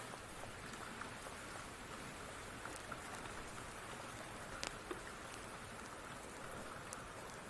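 Steady rain falling, an even hiss, with a few scattered sharp clicks on top; the loudest are two close together a little past halfway.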